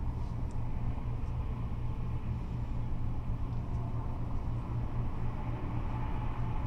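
Steady rumble of freeway traffic, cars and trucks going by in a continuous wash with no single vehicle standing out.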